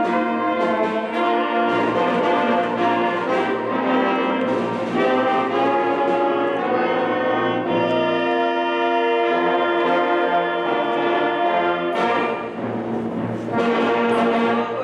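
Brass ensemble playing slow music in sustained chords, with trombone and trumpet sounds, dipping briefly about twelve seconds in before a final loud chord.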